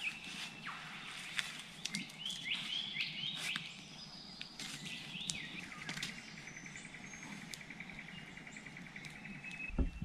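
Wild birds calling: a run of short swooping chirps, then a rapid, even trill lasting a few seconds. Scattered sharp crackles from a wood campfire.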